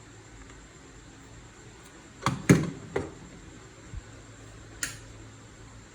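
A few sharp clicks and knocks over a steady low hum and hiss: three close together about two and a half seconds in, the middle one loudest, a faint thump a second later and one more click near the end.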